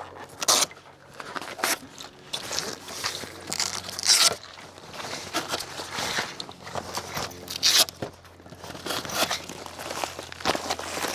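Irregular knocks, scrapes and crunches of camp gear being handled while an awning is put out, with the loudest clatters about half a second, four seconds and nearly eight seconds in.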